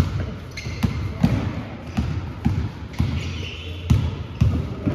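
An irregular series of dull thumps, roughly two a second, like repeated impacts during a training session.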